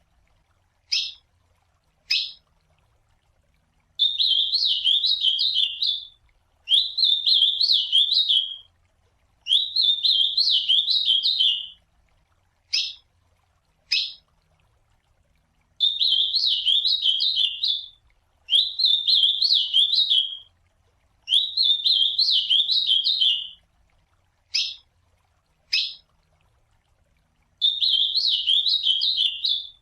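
Ultramarine grosbeak (azulão) singing: runs of three warbled song phrases, each about two seconds long, with a pair of short, sharp call notes between the runs.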